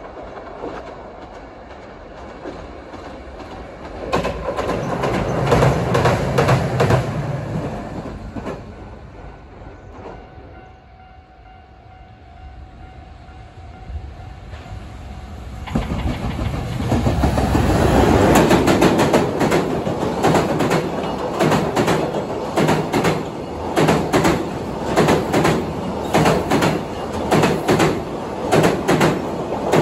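A Hiroshima Electric Railway tram passes. Then a freight train hauled by a JR Freight EF210 electric locomotive comes through, the wheels of its container wagons clacking over the rail joints in a quick, steady rhythm.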